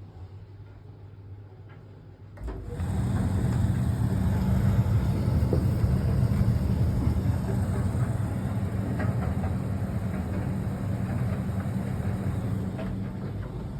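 Fisher & Paykel ED56NZ clothes dryer starting up about two and a half seconds in, then running steadily with a low motor hum and the rush of its tumbling drum and fan.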